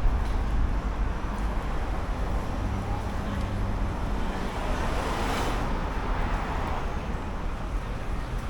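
City street traffic: a steady low rumble of motor vehicles, with one vehicle passing close about five seconds in.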